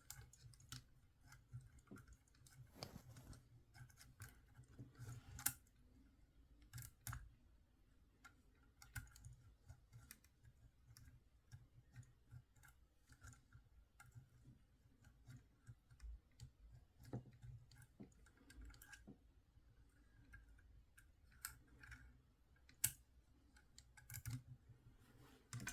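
Faint, irregular clicks and taps of small plastic toy parts being handled, with a few sharper clicks. This is a spring-loaded toy missile launcher being worked that will not fire, which the owner puts down to something wrong with its spring.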